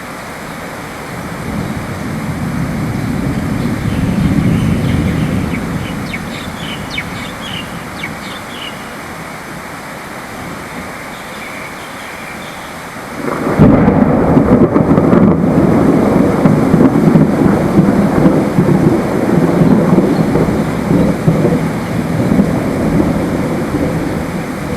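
Steady rain with thunder: a low roll swells and fades in the first few seconds, then about halfway through a sudden loud thunderclap breaks and keeps rumbling.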